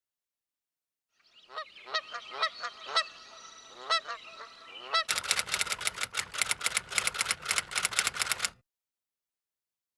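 A bird honking about seven times in short, pitched calls, then rapid, even tapping at about six taps a second for some three seconds, which stops suddenly.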